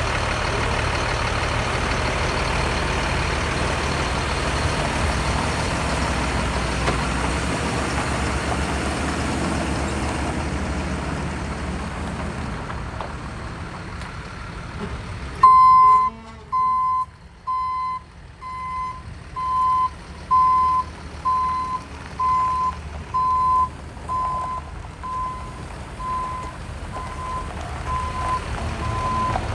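Ford F-550 service truck's engine running with a steady low rumble for about half the time. Then a backup alarm starts beeping, one steady high tone repeated about one and a half times a second, rising and falling in loudness as it goes.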